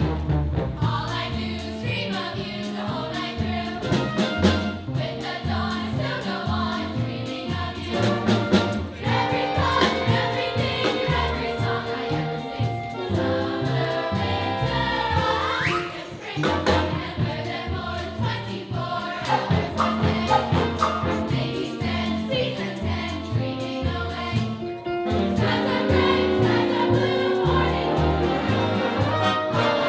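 A group of voices singing an upbeat show tune in chorus, with a band playing along under a steadily moving bass line.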